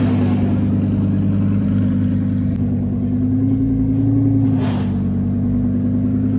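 A car engine running at low revs, its pitch rising slightly about four seconds in and then settling back, with a brief whoosh a little under five seconds in.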